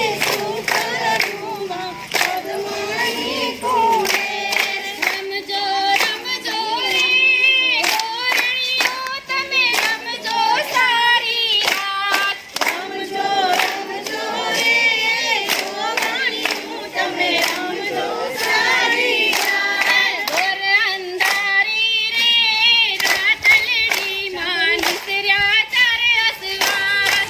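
A group singing a Gujarati garba song in chorus, with steady rhythmic hand clapping keeping the beat.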